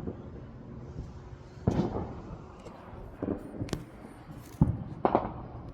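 Fireworks going off: a scattered series of about five sudden bangs and sharp cracks, the first a little under two seconds in and the others bunched in the second half.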